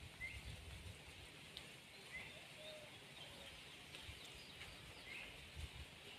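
Near silence with faint, scattered short bird chirps, about three of them, and a few soft low thuds.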